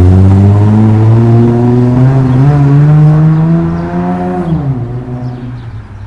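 Acura RL's V6 engine with its muffler deleted, accelerating away with a loud exhaust note that climbs steadily in pitch. About four and a half seconds in the pitch drops sharply, and the sound fades as the car pulls away.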